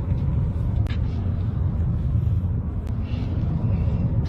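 Car driving, a steady low rumble of engine and road noise with a few faint clicks.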